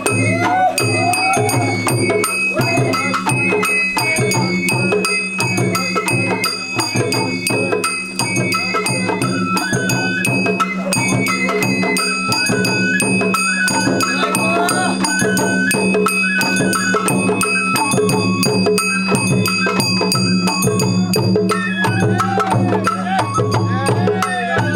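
Sawara bayashi festival music played from a festival float: a high bamboo-flute (shinobue) melody moving in steps over continual taiko drum strokes, with a steady low hum underneath.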